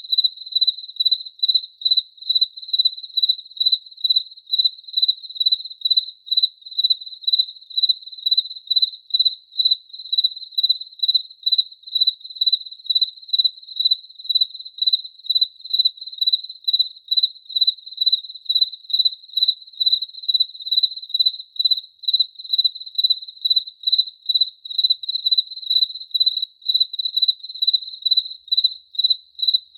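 A cricket chirping in an even, steady rhythm, about two short high-pitched chirps a second, all on one pitch.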